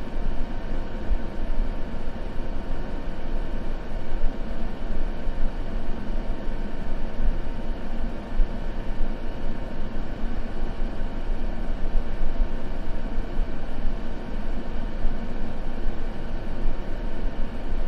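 Continuous white-noise ambience track: a steady, deep hiss, heavier in the bass than in the treble, with a faint hum.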